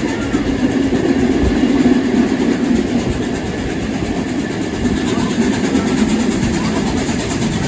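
Steady running noise of a train in motion, heard from on board the carriages hauled by steam locomotive 3801: a continuous low rumble with no break.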